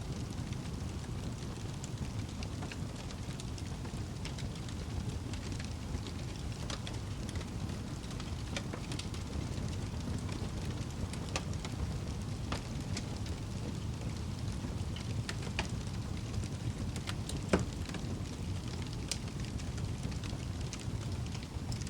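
Wood fire burning in a fireplace: a steady low rumble of flames with scattered small crackles, and one louder pop about three-quarters of the way through.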